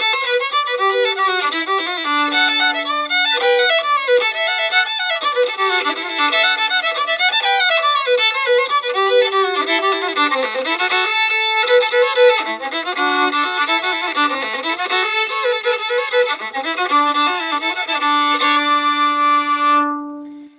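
Solo fiddle playing a lively fiddle tune, ending on a long held note that stops just before the end.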